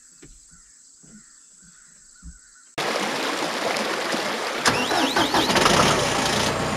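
Insects chirring faintly for the first few seconds, then a tractor engine running loud and close, cutting in suddenly about three seconds in, with a few high squeaks partway through.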